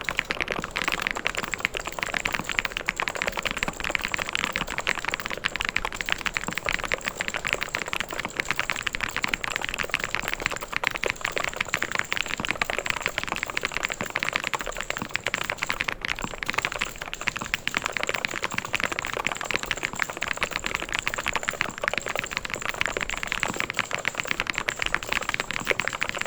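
Mechanical keyboard being typed on fast and without pause: a dense stream of key clicks.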